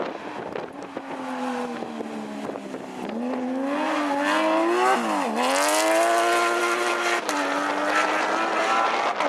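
Porsche rally car's flat-six engine pulling hard, its revs climbing, dipping sharply about five seconds in and climbing again, then holding high.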